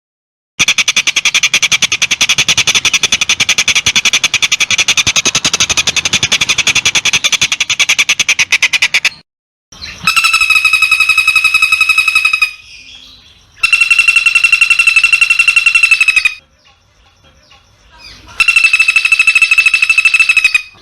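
Recorded bird calls looped with hard cuts. First comes a rapid buzzing trill lasting about nine seconds. Then come three spells of a steady, fast-pulsing ringing call, each two to three seconds long, with short gaps between them.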